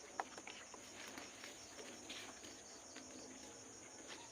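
Insects chirping steadily in a faint, high-pitched pulsing trill of about five pulses a second, with a few faint sharp clicks, the loudest just after the start.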